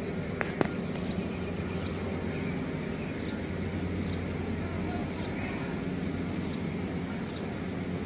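A bird chirping over and over, a short high chirp about every second, over a steady low outdoor rumble. Two sharp clicks come about half a second in.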